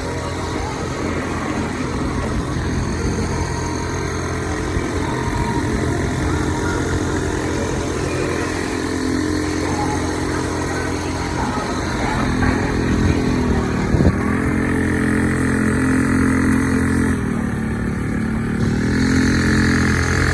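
Small motorbike engine running steadily, its pitch dipping and climbing back twice in the second half.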